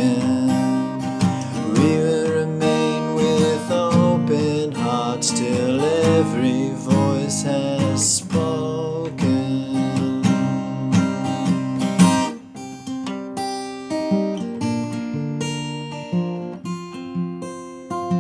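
Acoustic guitar strummed and picked in a folk song's closing instrumental, with a held, wavering melody line over it in the first several seconds. A sharp accented strum comes about twelve seconds in, and the playing is softer after it.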